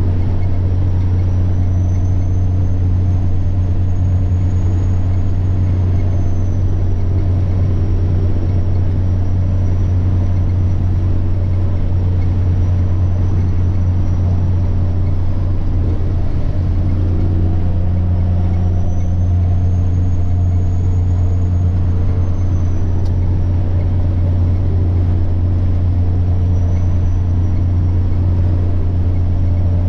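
Semi-truck diesel engine running under way with a steady deep drone, and a high turbocharger whine that slowly rises and falls in pitch. About seventeen seconds in, the engine note shifts.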